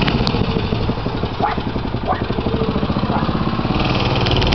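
A mini bike's 3 hp Briggs & Stratton single-cylinder four-stroke engine running under way. It eases off slightly about a second in and picks up again near the end.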